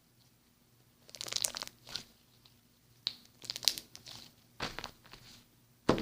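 Slime being worked by hand, giving clusters of short crackling, crunchy squishes with quiet gaps between; the sharpest one comes near the end.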